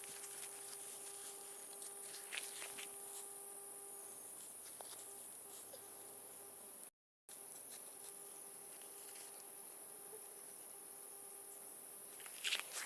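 Steady high-pitched insect chorus, typical of crickets or cicadas, with a few faint ticks and rustles. The sound cuts out completely for a moment about seven seconds in.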